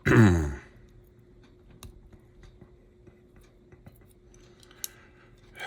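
Faint scattered clicks and ticks of small plastic and metal slot-car chassis parts being handled and fitted, with one sharper click just before five seconds in.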